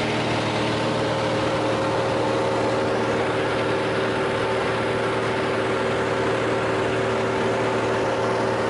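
A light airplane's engine and propeller droning steadily, with several even, unchanging tones over a broad rushing noise.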